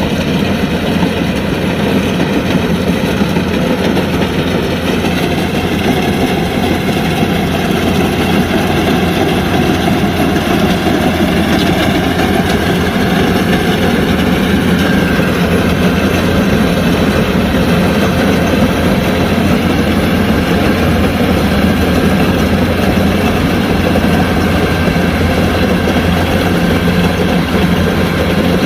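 Kubota DC-105X combine harvester's diesel engine running steadily and loudly, its pitch wavering a little now and then.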